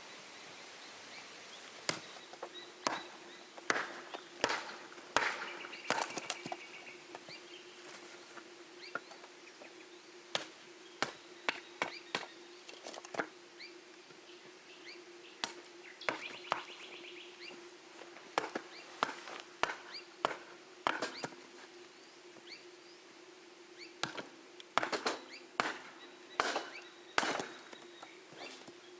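Irregular sharp knocks and clicks, some in quick clusters, over a steady low hum that comes in about two seconds in; a bird gives a short trill twice.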